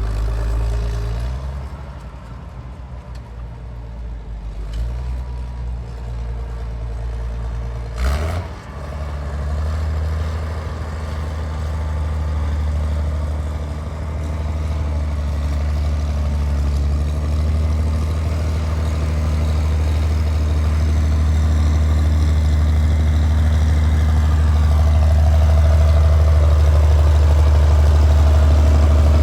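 A vehicle engine running with a low, steady hum. There is a sharp knock about eight seconds in, after which the engine is louder and keeps slowly building.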